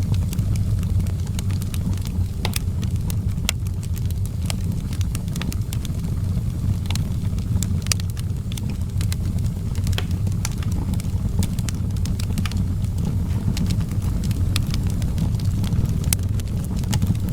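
Outdoor wood fire crackling, with irregular sharp pops and snaps over a steady low rumble.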